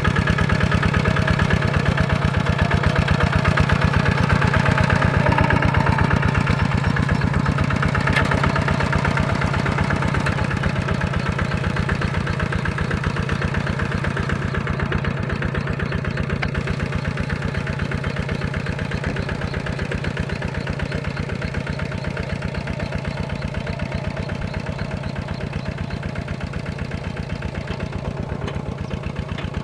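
Tractor engine running steadily with a rapid even beat, slowly growing quieter through the stretch.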